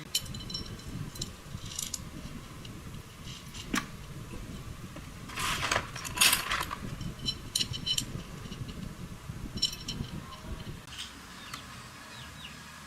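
Small metal parts and hand tools clinking and rattling, with a short, louder scrape near the middle.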